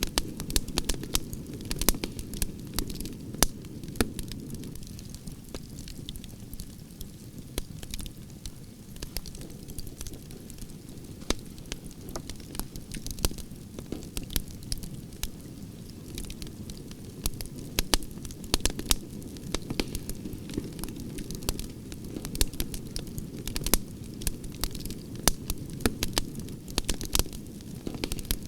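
Wood fire of burning branches crackling, with frequent sharp pops and snaps over a steady low rush of flames.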